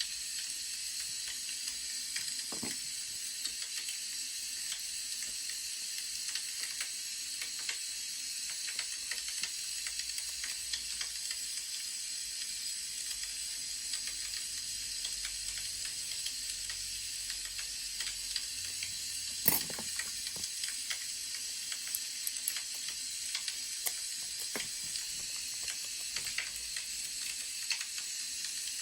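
Wood fire crackling: a steady hiss with scattered small pops, and one louder pop about two-thirds of the way through.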